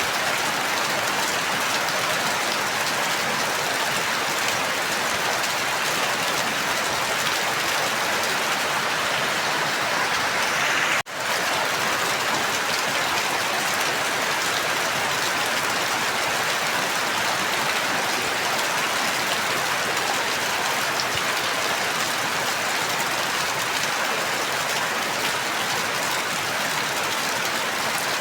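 Steady rain falling, an even wash of noise with a momentary break about eleven seconds in.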